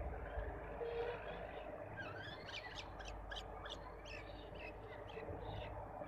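Small birds twittering, a quick run of short high chirps starting about two seconds in and fading out about three seconds later, over a steady low background rumble.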